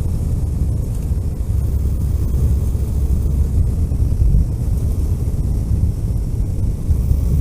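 A road vehicle being driven at a steady pace: a continuous low rumble of engine and road noise.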